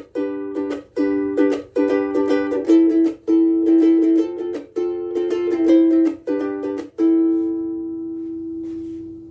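Cocobolo soprano ukulele with higher-tension Oli Uke Logic strings being strummed, a run of chords changing every half second or so. About seven seconds in a last chord is left to ring out and slowly fades.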